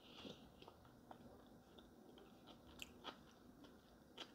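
Faint close-up chewing of a mouthful of fried eggs and tomatoes with the mouth closed, with a few short, soft clicks scattered through it.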